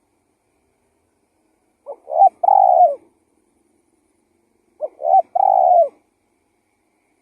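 Spotted dove (tekukur) cooing twice, two phrases about three seconds apart. Each phrase is two short notes followed by a longer, slightly falling coo.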